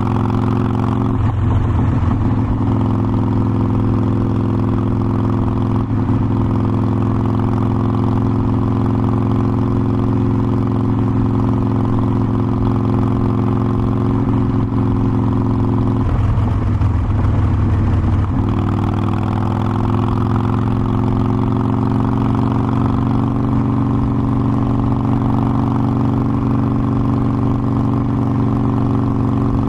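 Harley-Davidson Forty-Eight Sportster's air-cooled V-twin running at a steady cruise. Twice the steady note breaks up briefly, about a second in and again about sixteen seconds in, as when shifting gear, and after the second break the engine slowly pulls up in pitch.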